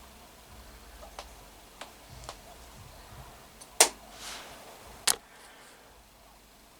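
A few light clicks and taps, then two sharp, loud clicks about a second and a half apart past the middle, the first followed by a short soft hiss.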